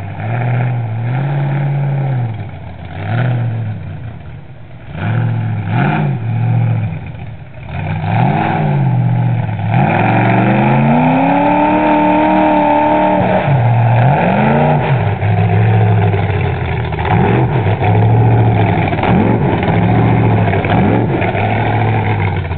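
Mud truck engine revving up and down again and again as it drives through the bog, with one long high rev held for a few seconds about ten seconds in.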